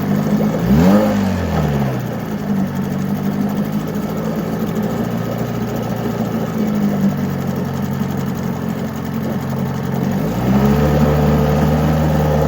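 An old 7.5 hp Mercury two-stroke outboard running. It is blipped up and back down about a second in, settles to a steady lower speed, then is throttled up and held at a higher speed near the end.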